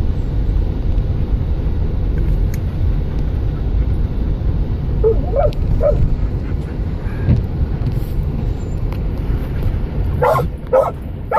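A dog barking inside a moving car: a few soft yips about halfway through, then three louder barks near the end, over the steady low rumble of the car on the road.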